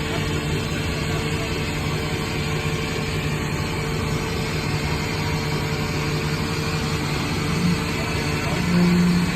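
Ford F650 rollback truck's engine idling steadily, with two short louder tones near the end.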